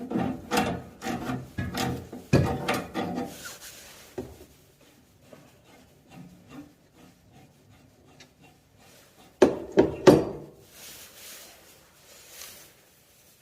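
Hand work on a heating pipe union: a quick run of knocks and scraping for the first few seconds, scattered light clicks, then a short loud clatter about nine and a half seconds in.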